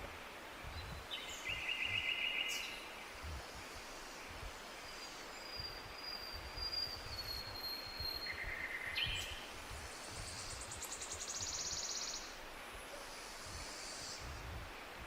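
Forest birds singing: a buzzy trill about a second in, a long thin whistle that falls slightly in pitch around the middle, and a very high rapid trill near the end, over a faint steady outdoor hiss and low rumble.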